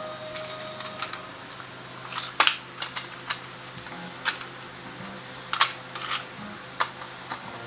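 Irregular sharp clicks and light metallic clinks of hand tools and parts being handled during scooter tyre work, about a dozen in all, the loudest about two and a half seconds in and again past five seconds, over a faint steady hum.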